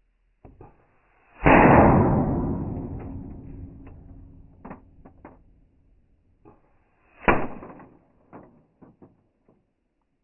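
Two bangs about six seconds apart. The first is loud and fades out slowly over two or three seconds, and the second is shorter. Small clicks and knocks are scattered between them.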